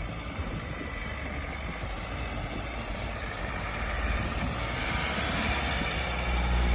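A four-wheel-drive vehicle driving, its engine and motion noise running steadily and growing louder over the last few seconds.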